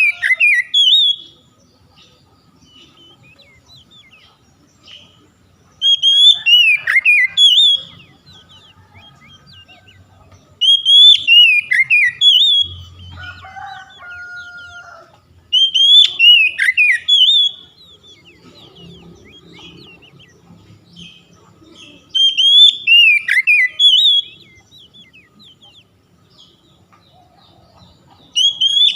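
Oriental magpie-robin (kacer) singing: a loud whistled phrase of rapid, falling and sliding notes about two seconds long, repeated every five to six seconds. A fainter, lower two-part call sounds once about thirteen seconds in.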